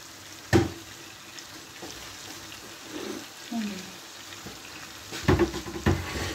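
Lamb and onions frying in oil in an earthenware tagine, a steady sizzle, with sharp knocks of utensils against the pot once about half a second in and several times near the end.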